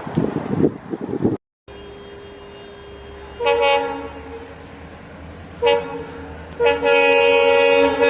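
Diesel locomotive's multi-tone air horn, likely an EMD WDP4-family loco, sounding a short blast, two more short blasts and then a long steady blast. A brief rumble of train noise comes first.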